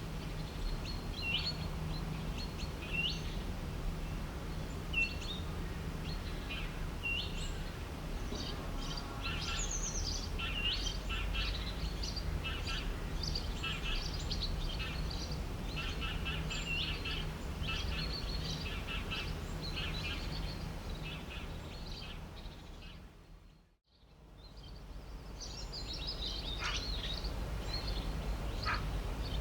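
Several songbirds chirping and trilling over a steady low background rumble and faint hum. About 24 seconds in, the whole sound fades down to silence and fades back up into more birdsong.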